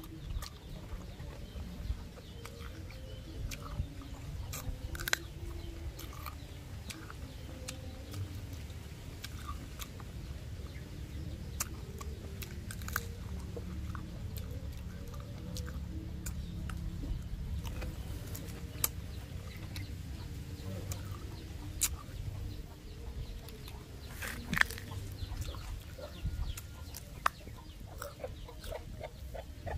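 Crisp bites and chewing of fresh green jujube fruit close to the microphone, heard as scattered sharp clicks. Underneath runs a steady background of low, wavering animal calls.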